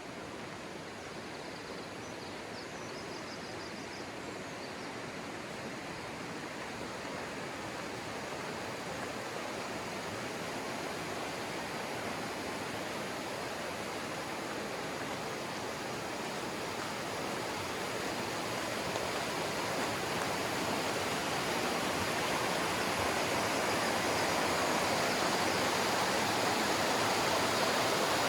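Rushing river water tumbling over rocks, a steady roar that grows gradually louder.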